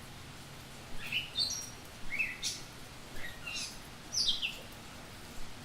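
A songbird singing: a series of short, high chirps and quick falling notes, spread over a few seconds, above a steady faint hiss.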